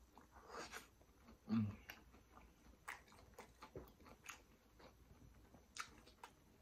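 Close-miked chewing of a crispy Flamin' Hot Cheetos-coated fried prawn: a soft crunch near the start, then scattered wet mouth clicks and smacks. A short hummed "mm" comes about one and a half seconds in.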